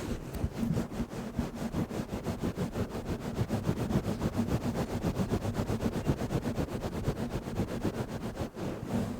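A fast, even run of small taps, about nine a second, steady throughout and easing off near the end.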